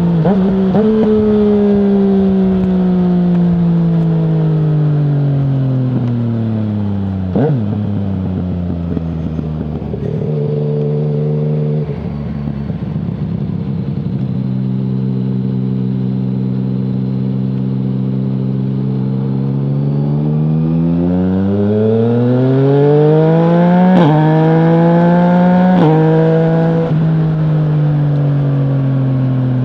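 The three-cylinder engine of a 2020 Yamaha MT-09 running through an Akrapovic full exhaust with no dB killer. The revs fall steadily at first, hold even for a long stretch, then climb hard near the end and ease back down, with a few brief sharp cracks as the revs change.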